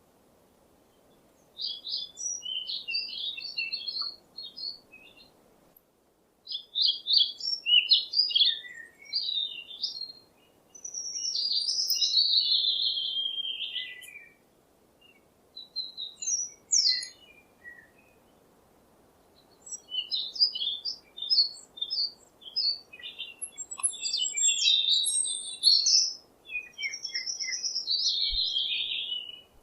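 Songbird singing: phrases of quick high chirps and warbles, with pauses of a second or two between them.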